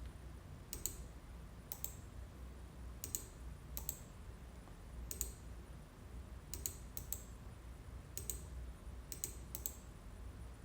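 Sparse, sharp clicks from working a computer, about a dozen spread irregularly a second or so apart, some in quick pairs, over a faint low hum.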